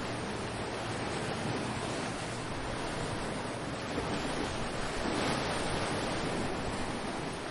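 Ocean waves washing onto the shore, a steady surf with one wave swelling up about five seconds in, with some wind on the microphone.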